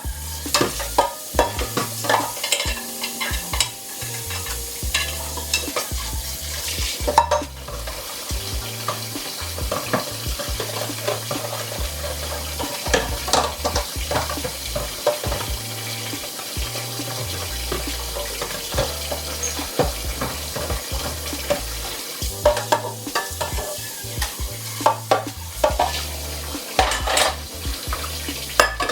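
Kitchen cleaning noises: a steady scrubbing or rubbing hiss with frequent clinks and knocks of dishes, pots and utensils.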